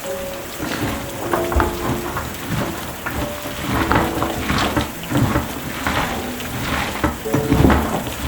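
Food frying in a pan, with a utensil stirring and knocking against the pot many times at an uneven pace.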